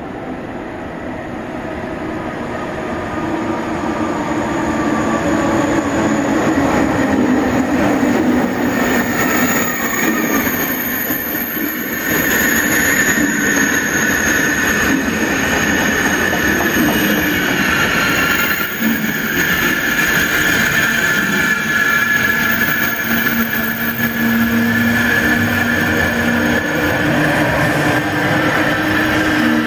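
Thalys high-speed train arriving at a platform and braking to a stop, its rumble growing louder over the first several seconds as it comes alongside. A steady high squeal from the brakes and wheels runs through it as it slows.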